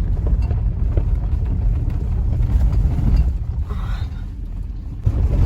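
Car driving, heard from inside the cabin: a steady low rumble of engine and tyres. It eases off slightly shortly before the end, then comes back louder.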